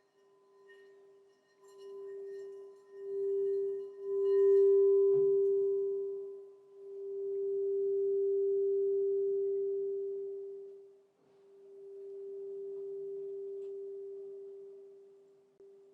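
Crystal singing bowl sounding one steady, pure, low tone that swells and fades in slow waves every few seconds, with a faint higher overtone. There is a light tap about five seconds in.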